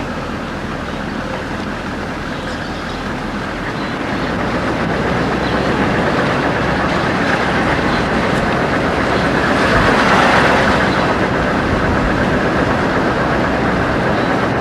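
A moving vehicle's steady road and engine noise, growing louder about four seconds in and loudest near the middle.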